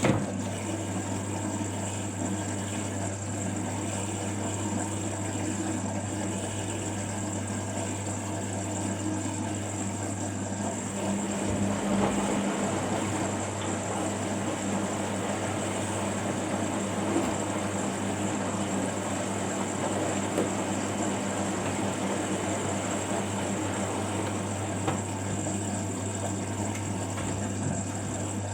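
Washing machine running through a cycle, giving a steady hum with a constant mechanical whir and a few small ticks.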